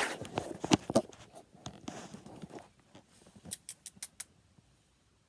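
Handling noises: rustling and light taps, then a quick run of about six sharp clicks some three and a half seconds in, after which it goes quiet.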